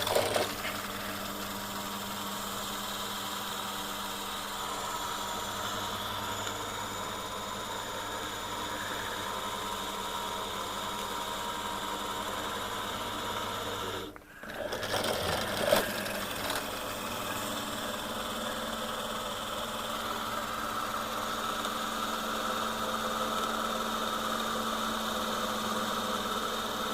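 Electric drill running steadily with a cobalt HSS bit, boring into very hard steel. It cuts out for a moment about halfway through, then runs on.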